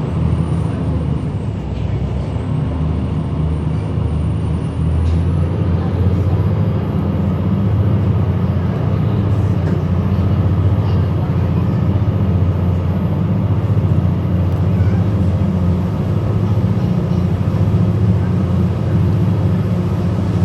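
Passenger ferry's engines running steadily under way, a loud low drone heard from on board.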